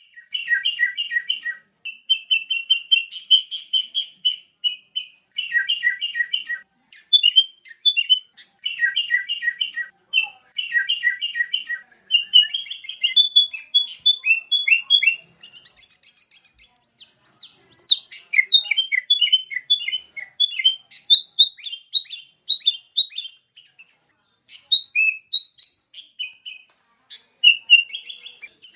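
Sooty-headed bulbul singing: short phrases of quick whistled notes, the same phrase repeated several times, then a longer run of varied chirping notes.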